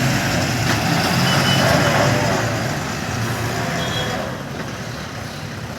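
Heavy truck engine labouring slowly round a steep hairpin bend, loudest about two seconds in and then easing off, with two short high beeps, one early and one about four seconds in.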